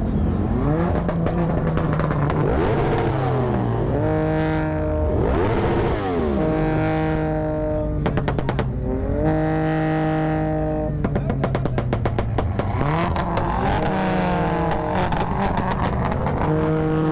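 A high-revving vehicle engine being revved hard several times while standing: each time the pitch sweeps up, holds steady at high revs for a second or two, then falls back.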